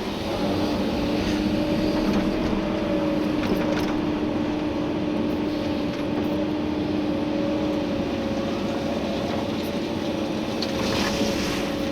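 Komatsu PC290-11 excavator's diesel engine and hydraulics running steadily at work, heard from inside the cab, with a steady droning tone and a few faint knocks.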